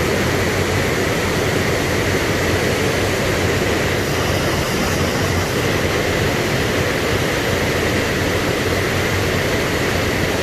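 Steady, loud rushing noise with no breaks or changes.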